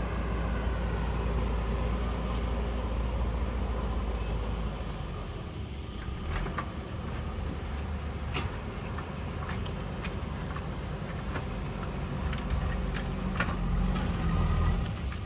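Heavy earthmoving machine's diesel engine running with a steady low rumble that eases after about five seconds. Scattered sharp knocks and clicks come through the middle stretch.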